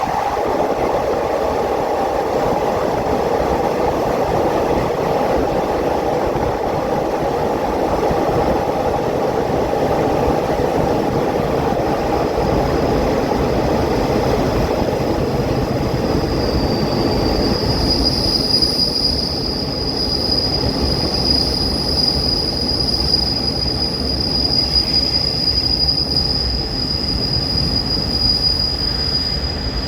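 Passenger train on the rails with a steady running rumble. About halfway through, a high, steady metallic squeal joins in and holds.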